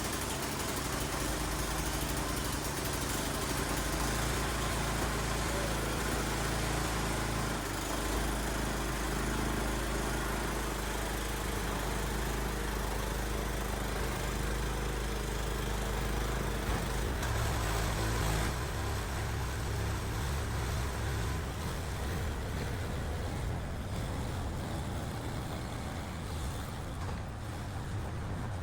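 Small gasoline engine of a snow blower running steadily after starting on old, stale gas that the owner suspects has fouled the carburetor, and which he fears will stall. Its low hum shifts about eighteen seconds in.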